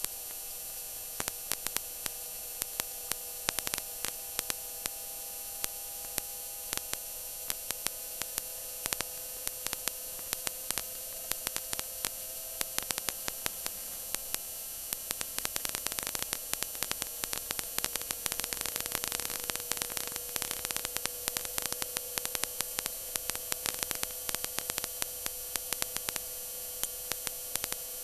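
A racing stock car's V8 engine runs at a steady high pitch, heard from inside the cockpit through the in-car camera's microphone. The engine tone sits under heavy static hiss with constant crackling.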